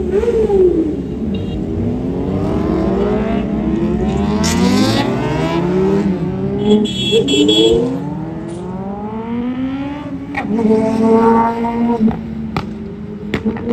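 Superbike engine accelerating hard, its pitch climbing and falling back repeatedly as it goes up through the gears, then holding a steadier note near the end.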